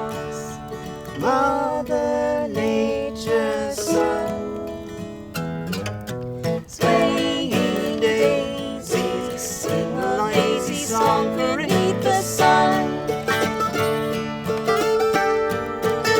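Acoustic music with plucked string instruments, moving through changing notes with no words, with a brief drop just before the midpoint.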